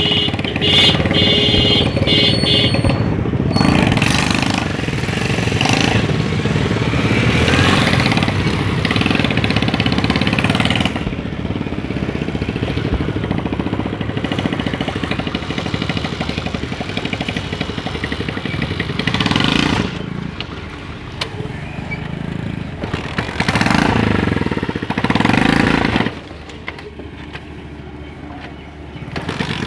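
Road traffic: motorcycle and other vehicle engines running, swelling and fading several times, with a quieter stretch near the end.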